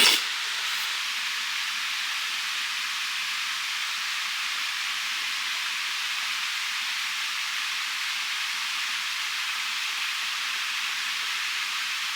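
Food sizzling on a hot cooking plate: a steady, even hiss, with a brief knock right at the start.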